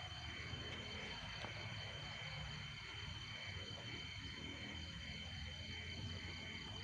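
Night insects, crickets, chirping in a steady pulsing chorus with one continuous high trill, over a low background rumble.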